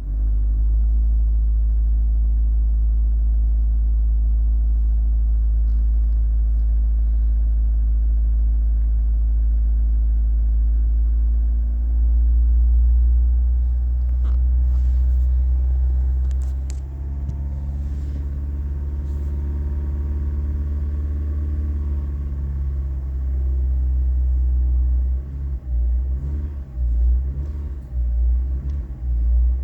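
A car engine running with a deep, steady rumble. It swells a little about twelve seconds in, and near the end it wavers up and down as the throttle is blipped.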